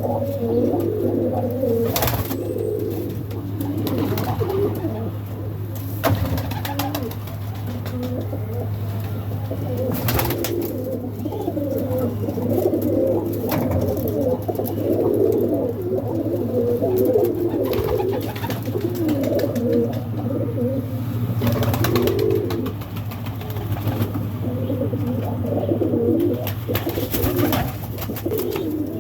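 Several doves cooing on and on, their coos overlapping, over a steady low hum, with a few brief sharp sounds scattered through.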